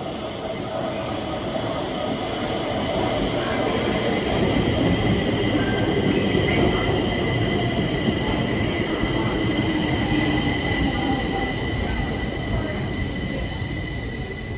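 Stockholm Metro train running on the track: a low rumble with a high, steady squeal over it, growing louder toward the middle and easing off near the end.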